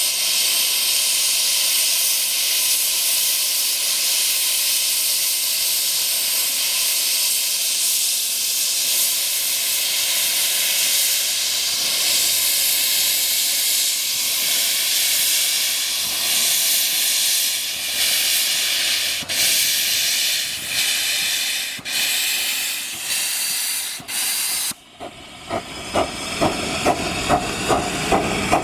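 Miniature steam locomotive of a 15-inch-gauge railway letting off steam in a loud, steady hiss. The hiss breaks off about 25 seconds in, and a rhythmic beat of two to three pulses a second follows.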